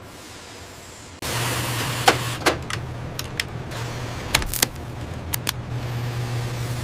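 Machinery running with a steady low hum that starts abruptly just over a second in, with sharp clicks at irregular intervals over it.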